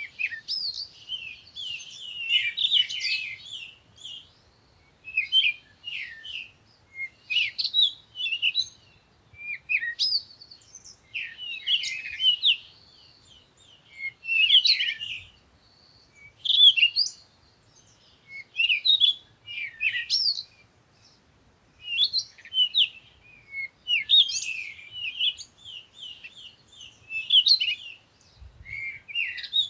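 Small songbirds chirping and twittering in quick, high-pitched phrases, one burst after another with short gaps between.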